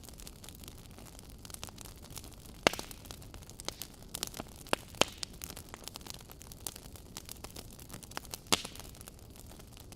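Fireplace crackling: a soft steady hiss of burning wood, with irregular sharp pops and snaps, the loudest about a third of the way in, at the middle and near the end.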